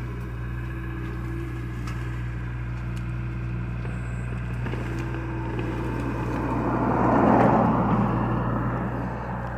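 A John Deere excavator's diesel engine running steadily, swelling louder with a rushing sound for about two seconds near the end as the machine works under load.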